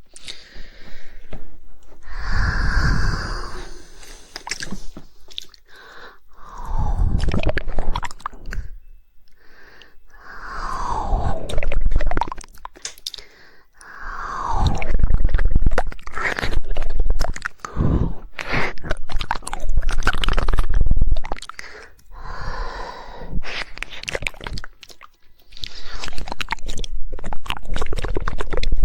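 Close-miked ASMR mouth sounds: rapid 'woodpecker' tongue clicks and wet smacking noises, in bursts of a few seconds with short pauses between.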